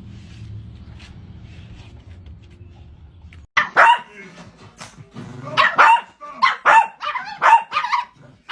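A dog barking repeatedly in short, sharp barks, often in quick pairs, starting suddenly about three and a half seconds in after a faint low hum.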